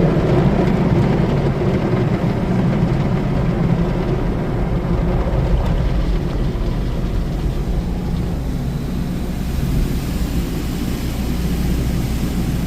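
Tunnel car wash machinery running at the mitter curtain stage: a steady low hum with an even wash of spray and equipment noise over it.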